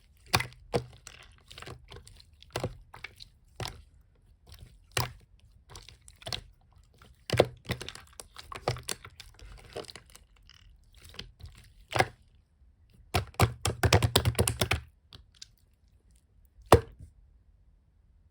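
Opaque slime being squished and poked by hand, giving irregular sticky clicks and pops. About thirteen seconds in comes a quick run of crackling pops lasting a couple of seconds.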